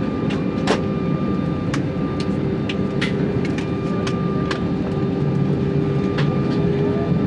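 Airbus A320 heard from inside the passenger cabin: a steady engine hum and low rumble, with frequent sharp rattles and clicks from the cabin fittings.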